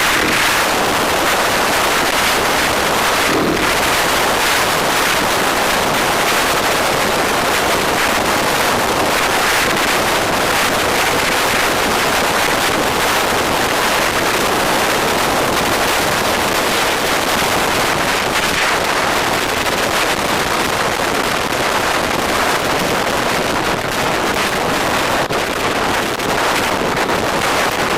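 Steady wind rushing over the microphone of a moving bike, with road and traffic noise underneath.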